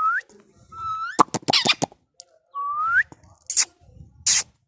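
Three short rising whistles mixed with an Indian ringneck parrot's harsh squawks, the harshest about a second in and two brief shrill screeches near the end.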